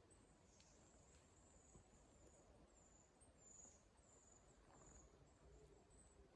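Near silence in a conifer forest, with a faint bird giving a string of very high, thin, short notes about twice a second.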